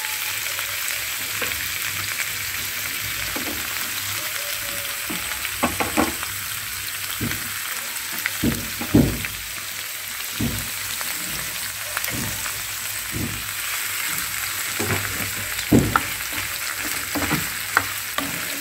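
Cucumber pieces and green chillies frying in oil in a non-stick pan, giving a steady sizzle. Occasional short knocks and scrapes come from the contents being stirred in the pan.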